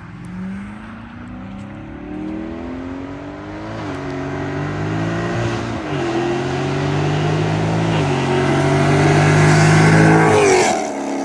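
Dodge Charger Scat Pack's 392 Hemi V8 on a loud modified exhaust, accelerating hard past on a fly-by. The engine note climbs and drops back with each of several upshifts, grows louder as the car approaches, and is loudest as it passes near the end before falling off sharply.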